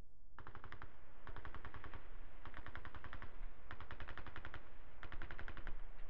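Chieftain tank machine gun firing five short bursts of rapid fire over a steady low rumble.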